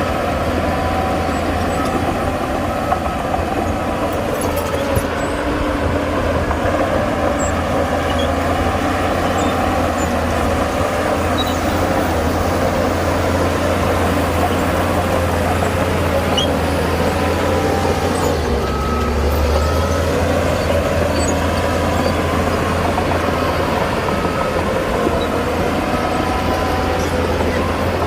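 Heavy diesel earthmoving machinery running steadily under load: a continuous, deep engine drone.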